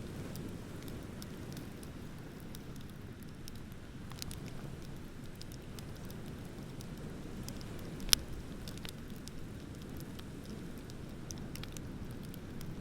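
Wood bonfire crackling with scattered small snaps and one sharp, loud pop about eight seconds in, over a steady low rush.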